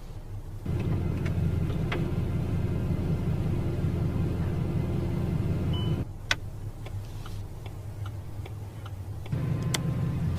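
Bugatti supercar engine idling with a steady low rumble. The rumble falls away for about three seconds in the middle, where a few sharp clicks are heard, and comes back near the end.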